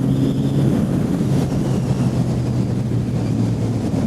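Motorcycle engine running at a steady cruise under wind rushing over a helmet microphone.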